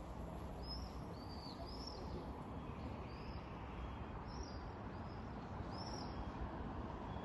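A small bird chirping: a series of short, high, arching notes, about one or two a second, over a steady low background hum of outdoor noise.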